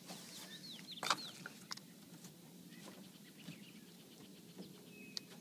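Faint bird chirps: a quick run of short downward chirps about half a second in. A sharp click about a second in is the loudest sound, with a few lighter clicks later.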